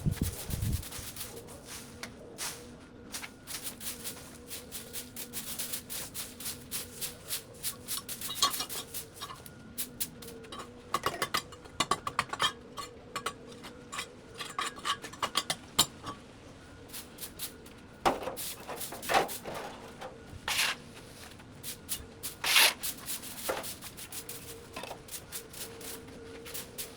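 Irregular clatter of sharp knocks, clicks and scrapes, dense through the middle and sparser near the end, with a few louder strikes, over a faint steady hum.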